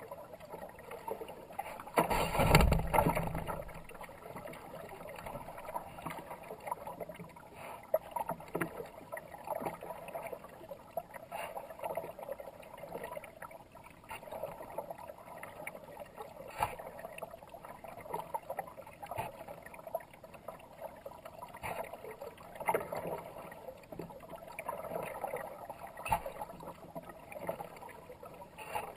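Kayak paddling: the paddle blades dipping and splashing in fast river water, with drips and small clicks between strokes and a few sharp knocks. A loud, deep rush about two seconds in stands out above the rest.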